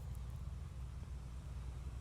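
Steady low rumble with a faint even hiss above it: outdoor background noise.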